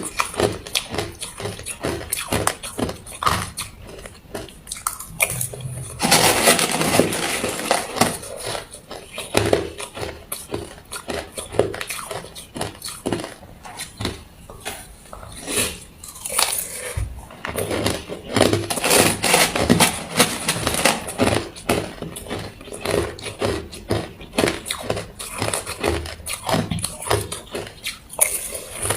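Ice being bitten and chewed: a long run of sharp crunches and cracks, densest about six seconds in and again around eighteen to twenty seconds in.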